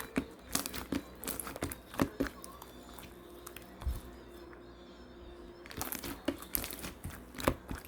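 Clear slime being handled, giving off irregular wet clicks and pops, thinning out to a few soft ones in the middle before picking up again.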